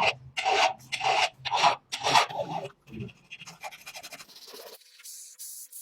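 Scraping strokes, about two a second, from a hand tool worked back and forth over a surface. They give way to lighter, irregular clicks and then a brief high hiss near the end.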